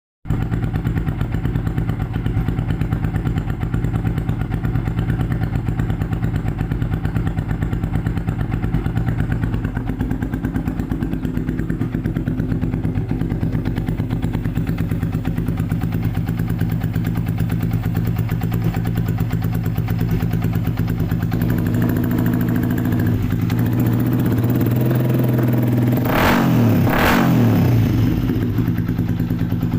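Motorcycle engine idling steadily through an NR24 dual snail-type (keong) racing exhaust, then given two quick throttle blips near the end.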